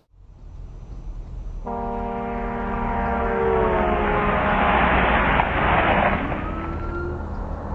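A loud multi-tone vehicle horn, possibly from a train, starts sounding suddenly as a vehicle passes. Its chord drops in pitch as it goes by, while the rushing noise of the passing vehicle swells and then fades.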